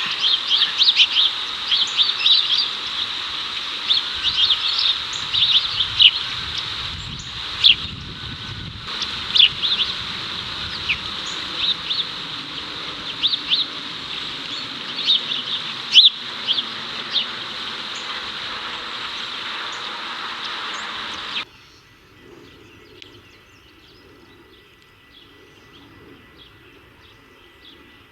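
House sparrows chirping again and again over the steady buzz of cicadas. About three-quarters of the way through, the buzz and the loud chirps stop abruptly, leaving only faint, sparse chirps.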